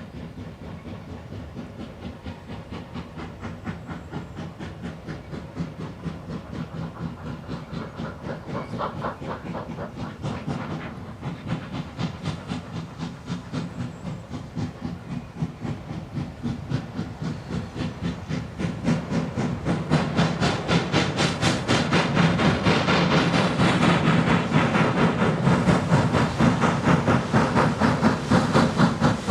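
Steam locomotive working under steam, its exhaust beating in a rapid, regular chuff with hiss, growing steadily louder as it approaches and loudest over the last third.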